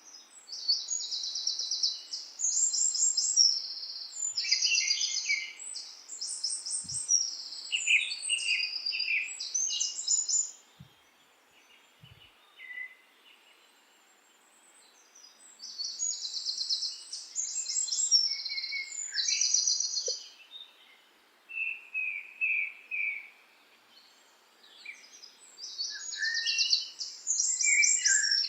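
Songbird singing long phrases of fast, high trills and chips, repeated in bouts separated by pauses of a few seconds.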